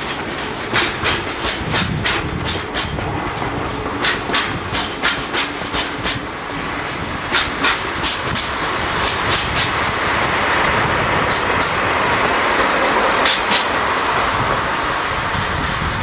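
Freight train wagons rolling past, their wheels clicking over rail joints in quick pairs about once a second. About halfway through, the clicks thin out under a louder, steady rushing noise.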